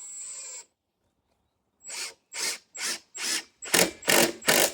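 A tool working wood: a short run at the start, then after a pause seven short, even strokes about two and a half a second, growing louder towards the end.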